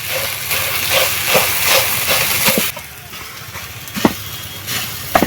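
Vegetable and prawn chorchori sizzling in a kadai, nearly cooked down; the sizzle cuts off abruptly just past halfway, then two sharp knocks follow near the end.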